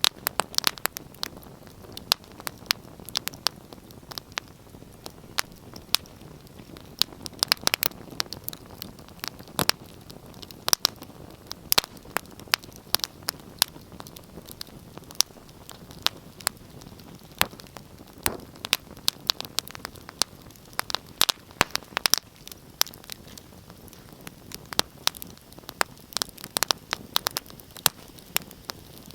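Wood fire burning in a fireplace: irregular sharp crackles and pops over a soft steady hiss of flame.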